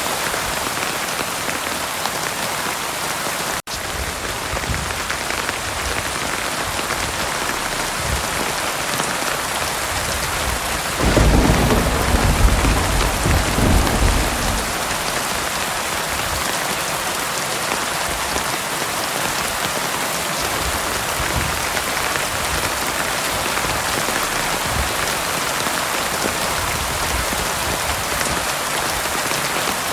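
Heavy rain falling steadily. About eleven seconds in, a roll of thunder rumbles low for some three seconds, the loudest thing here. A few seconds in, the sound breaks off for an instant.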